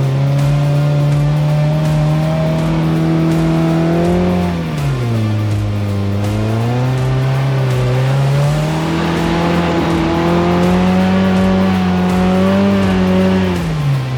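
Suzuki Samurai's four-cylinder engine running under load as it is driven through snow; its pitch holds steady, drops about four and a half seconds in, climbs back over the next few seconds, and drops again near the end.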